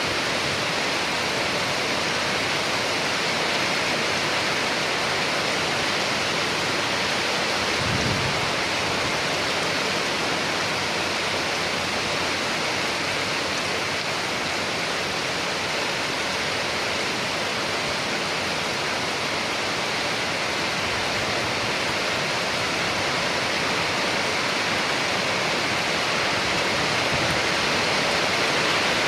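Steady heavy rain falling, a dense even hiss with no break, with one brief low thud about eight seconds in.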